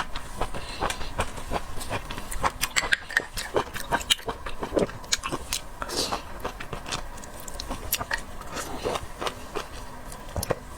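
Close-miked chewing and biting of raw seafood sashimi: a quick, irregular run of mouth clicks throughout.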